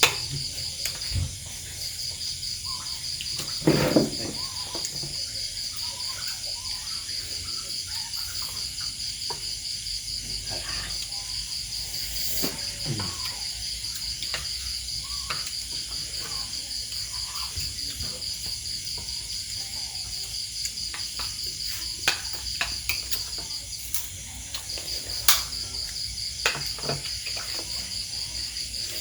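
Insects chirring in a steady, rapidly pulsing high-pitched chorus that drops out briefly about a second in and again near the end. Scattered clicks and knocks sound over it, the loudest a thump about four seconds in.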